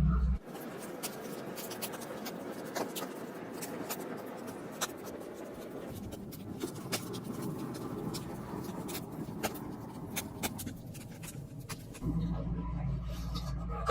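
Dry, steady scratching and scraping with many small sharp clicks, as of hand-sanding or scrubbing a part. A low steady hum comes in near the end.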